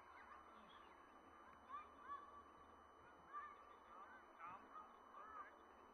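Faint bird calls: a string of short, arching calls repeated several times, among them a goose-like honk.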